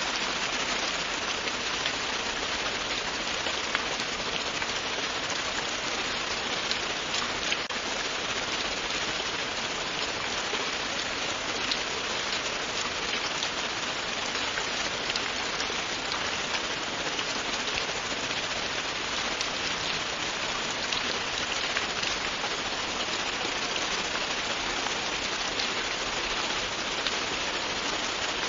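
Steady rain falling on a surface: an even hiss of rainfall with scattered individual drop ticks.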